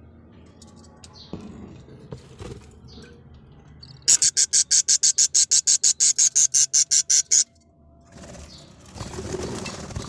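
A bird makes a fast, even run of about twenty loud, sharp pulses, some six a second for about three seconds, starting about four seconds in. Softer rustling and handling noise come before and after it.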